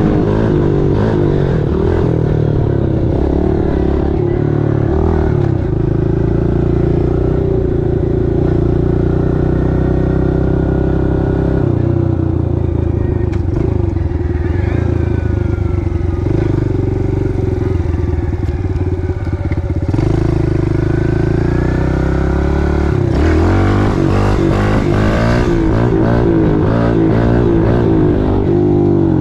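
Pit bike's small single-cylinder four-stroke engine running while riding, its pitch rising and falling several times as the throttle opens and closes, with a climb in revs near the end.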